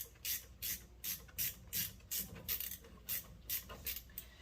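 Hand ratchet wrench being worked back and forth on a brake fastener, a short rasp of pawl clicks on each stroke, about three strokes a second.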